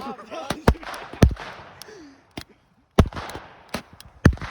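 Consumer fireworks going off: a string of about seven sharp bangs at irregular intervals, the loudest a little over a second in.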